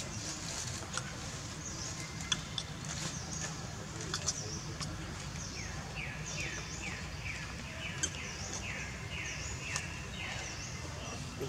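Birds chirping over a steady low outdoor rumble, with a run of quick, downward-sliding calls about two a second in the second half, and a few sharp clicks.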